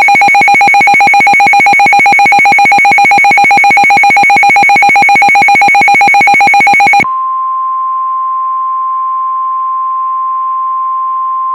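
Weather radio alert: a loud, rapidly pulsing buzz alarm for about seven seconds, then a single steady high tone, the NOAA Weather Radio 1050 Hz warning alarm tone that comes before a new warning.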